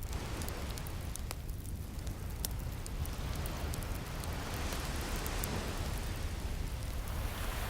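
Ocean waves washing in, with a wave swelling over the middle seconds and falling away, over a steady low surf rumble, and a fire crackling with scattered sharp pops.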